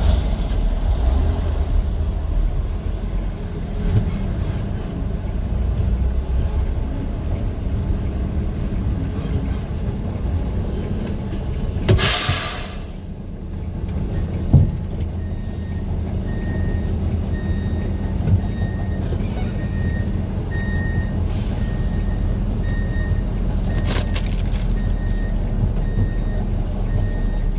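A heavy vehicle's engine running with a steady low rumble. About halfway through there is a loud hiss of released air, with a shorter hiss near the end. From just after the first hiss, a high beep repeats at an even pace, a bit faster than once a second.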